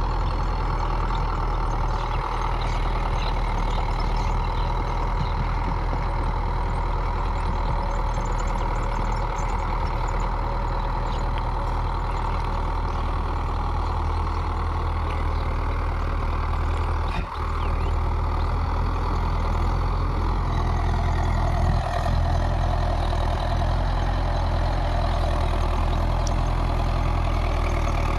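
Mahindra 4WD tractor's diesel engine running steadily under load, driving a 6-foot rotavator. The engine note shifts a little about three-quarters of the way in, with a brief dip in level a few seconds before.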